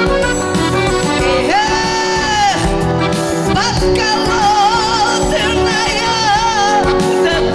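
A Roma song sung over instrumental backing with steady sustained chords. Near the start of the phrase a voice holds one long note for about a second, then moves into a melodic line that wavers in pitch with vibrato.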